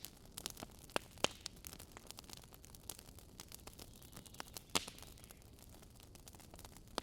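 Campfire burning wood, crackling: a soft steady hiss with many small snaps and a few louder pops, about a second in and again near five seconds.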